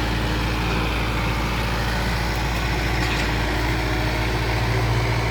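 Engine running steadily at a constant speed, a low even drone with no change in pitch.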